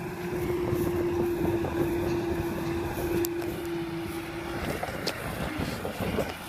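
Kubota M6040SU tractor's diesel engine running under load as it pulls a loaded trailer through deep mud, with a steady tone in its note that drops out about three-quarters of the way through.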